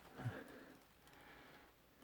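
Near silence: room tone, with one brief faint voice sound about a quarter second in.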